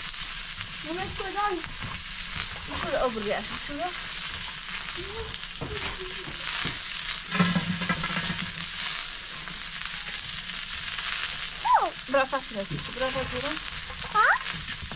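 Food frying in a pan, a steady sizzling hiss, with a few short, higher-pitched calls over it.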